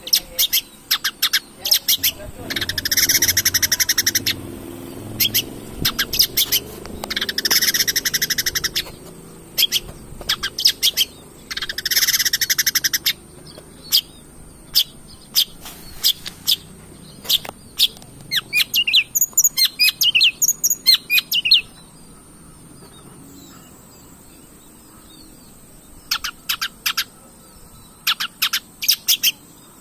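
Long-tailed shrike (cendet) singing. Sharp repeated chips and three harsh, rapid trills of one to two seconds each come in the first half, then a warbling run of quick notes. After a pause of a few seconds the chips start again near the end.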